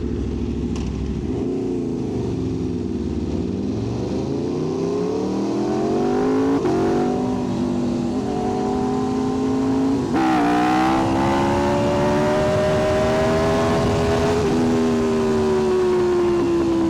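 Aprilia RSV4 V4 sport-bike engine accelerating through the gears: the revs climb, drop back at an upshift about six and a half seconds in and again about ten seconds in, then climb once more. Near the end the throttle eases and the engine note slowly falls.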